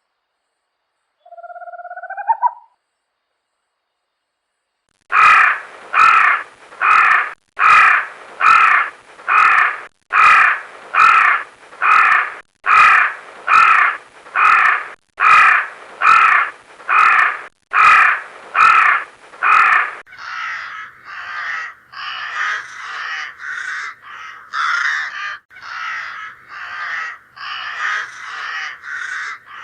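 Crows cawing: after a short rising call about a second in, harsh caws start at about five seconds in runs of three, then at about twenty seconds give way to denser, overlapping cawing from several crows.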